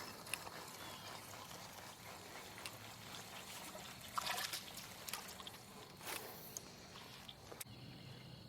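Faint pond water splashing and dripping as a hooked fish is brought in and landed, with brief soft splashes about four and six seconds in.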